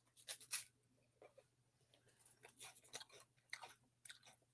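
Faint chewing: irregular soft crunches and small mouth clicks, the clearest about half a second in and again past the middle.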